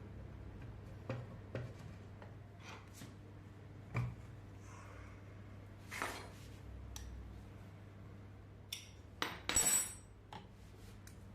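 Metal tools and engine parts clinking and knocking now and then, with a louder clatter about nine to ten seconds in, over a steady low hum.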